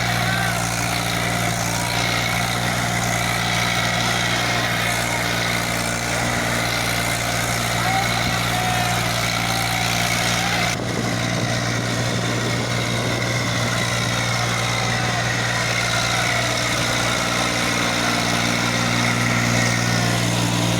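Eicher 380 tractor's diesel engine running steadily at a constant speed, with faint voices in the background.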